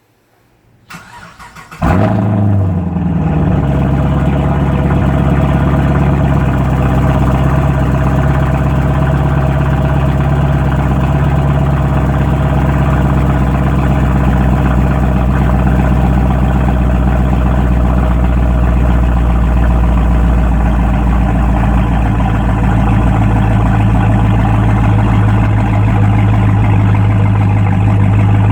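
Chevrolet Camaro SS V8 with its muffler, X-pipe resonator and secondary catalytic converters deleted, cold-started: the starter cranks briefly about a second in, then the engine catches with a loud burst and settles into a loud, steady cold fast idle.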